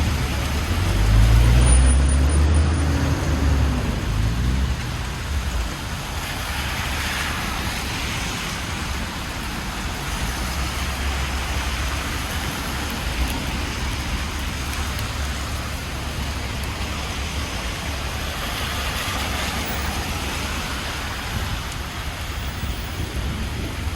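Street traffic on a rain-wet city avenue: a heavy vehicle's engine passes in the first few seconds, its pitch rising and falling, then a steady hiss of tyres on wet road, with cars swelling past twice.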